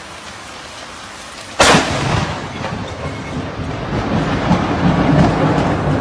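Steady rain, then about one and a half seconds in a sudden loud crack of thunder from a lightning strike, which rolls on as a long low rumble that swells again near the end.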